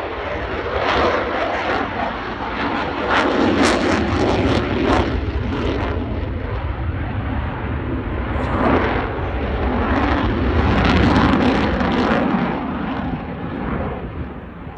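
Eurofighter Typhoon's twin EJ200 jet engines passing during a display, with loud jet noise and a rasping crackle that swells and eases several times as the aircraft manoeuvres.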